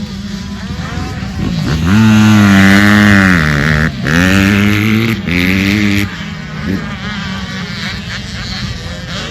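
Dirt bike engine running, then revving up loud about two seconds in, its pitch dipping sharply twice before it drops back to a quieter running drone after about six seconds.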